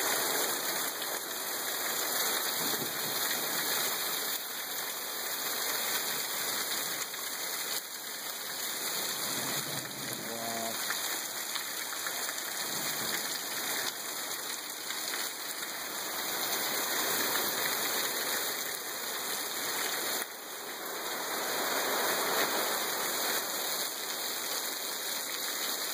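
Heavy rain pouring down in a steady hiss, falling on trees and splashing on rocky ground and wet wooden boards.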